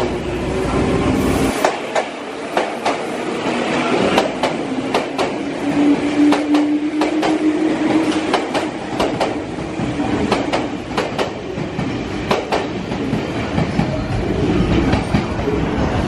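Meitetsu electric train pulling out of a station: its wheels click over rail joints in an irregular run of sharp clacks, over a low motor whine that slowly rises as it gathers speed. Near the end, the rumble of another approaching train builds.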